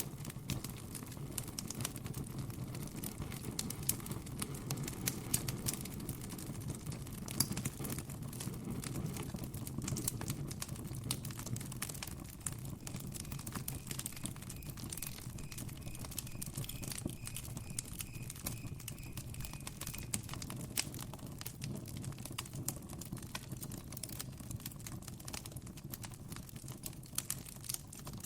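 Campfire crackling steadily, with frequent sharp pops and snaps of burning wood over a low, even rumble of the flames. Faint evenly spaced chirps from a cricket come in for several seconds around the middle.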